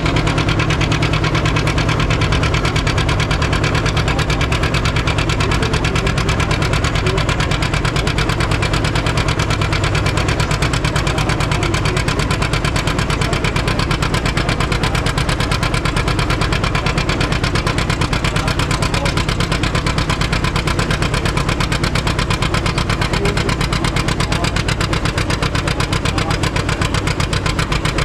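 Antique farm tractor engine running steadily at an even, unchanging speed, its firing beat heavy and low.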